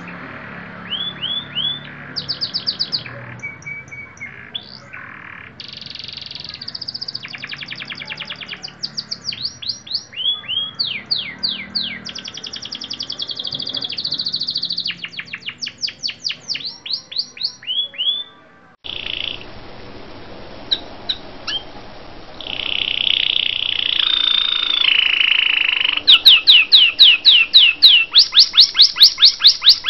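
Songbirds singing loud, varied phrases of rapid whistles, trills and sweeping notes. Part way through the recording cuts abruptly to another bird, which ends with a fast run of repeated sweeping notes.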